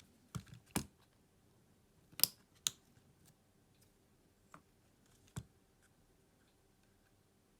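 A few small, sharp clicks and taps, about six spread over the first five and a half seconds, then quiet hum: tools and parts knocking against each other while a smartphone is being taken apart.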